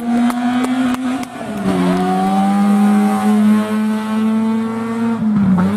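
Rally car engine held at high, steady revs, with a quick series of exhaust pops in the first second and a short drop in pitch, like a gear change, about a second and a half in.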